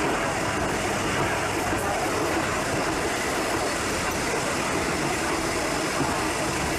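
Tamsui Line train noise: a steady rumble and hiss.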